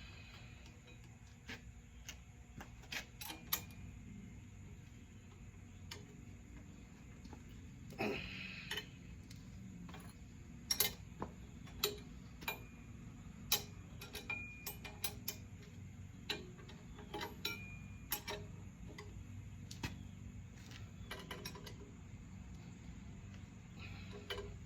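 Scattered, irregular light clicks and knocks over a low steady hum, with a longer scraping rustle about eight seconds in.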